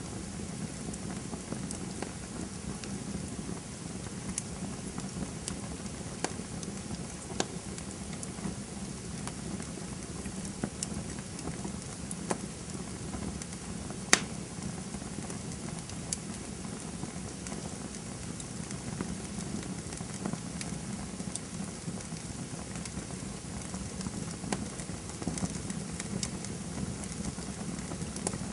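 Campfire crackling: a steady low rush of burning wood with scattered sharp pops and snaps, the loudest snap about halfway through.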